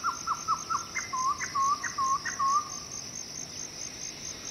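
A bird sings a run of clear whistled notes: about six quick falling notes, then five slower swooping ones, which stop about three seconds in. Under them runs a steady high-pitched insect trill.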